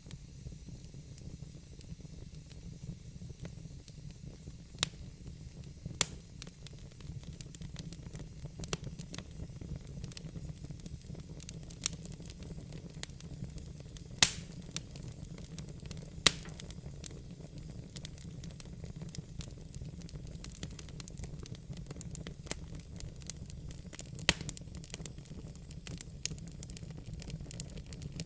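Wood fire burning in a fireplace: a steady low rumble of flame with sharp, irregular crackles and pops from the burning logs, a few of them loud.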